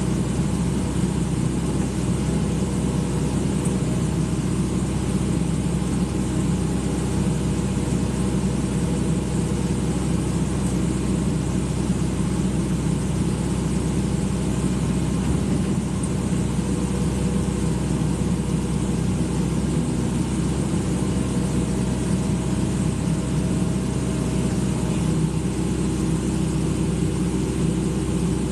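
Excavator's diesel engine running steadily at an even pitch, with no knocks or changes in speed.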